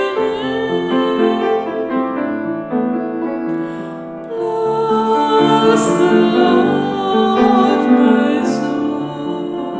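A slow Taizé chant sung with piano accompaniment, in long held notes.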